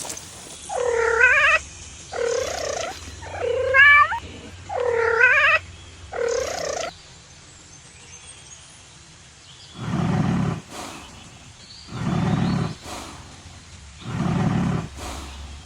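A domestic cat meowing five times in a row, each meow wavering in pitch. After a short pause, a lion gives a series of four deep roaring calls about two seconds apart.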